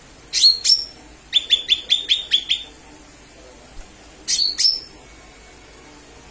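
Cucak ijo mini (lesser green leafbird) calling with loud, sharp whistled notes. First comes a pair of notes, then a quick run of about seven notes, then another pair a couple of seconds later.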